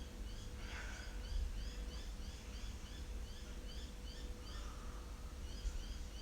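A bird chirping in a quick, steady series of short rising chirps, about three a second, over a low background rumble.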